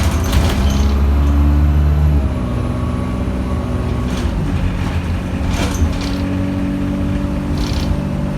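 A London bus's engine and drivetrain running on the move, heard on board; its drone drops in pitch and loudness about two seconds in and shifts again around four seconds, with a few brief knocks and rattles.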